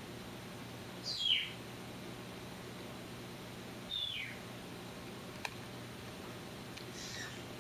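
A bird chirping: two short calls that fall in pitch, about a second in and about four seconds in, with fainter chirps near the end. Under them runs a steady low hum from the aquarium filter, and a single click comes a little after five seconds.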